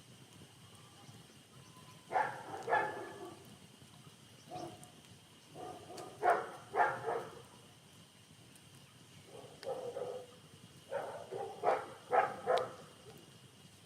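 A dog barking in short groups of two to four barks, four times over, with pauses between the groups.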